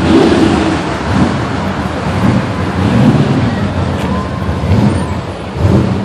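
Car engine running, its low sound swelling and easing every second or so, with voices mixed in.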